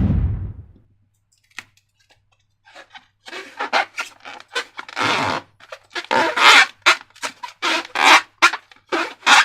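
Slime and balloons being handled. A loud noisy burst fades out about a second in, then after a pause come a quick series of short wet squelches and rubbery squeaks from slime being squeezed and squished.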